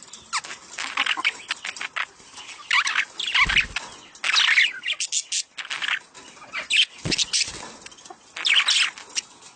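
Budgerigars chattering and warbling in quick bursts of high, scratchy chirps, the breeding chatter that is played to stimulate pet birds to mate. There are a couple of brief low thumps.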